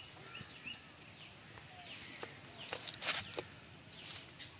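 Faint bird calls: short, repeated falling chirps, with a few brief scratchy noises about three seconds in.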